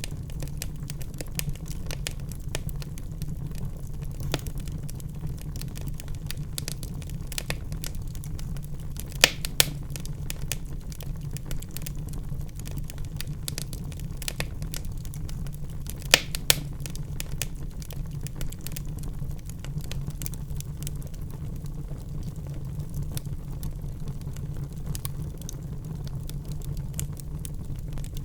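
Wood fire crackling in a fireplace: a constant scatter of small ticks and snaps over a steady low rumble, with a couple of louder pops about nine seconds in and again around sixteen seconds.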